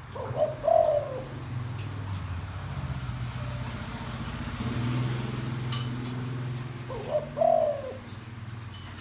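Spotted dove giving two deep cooing calls about seven seconds apart, each a short note then a longer falling one, over a low steady hum.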